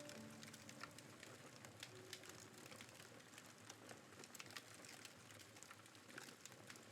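Wood campfire crackling faintly: small irregular pops and snaps over a soft hiss.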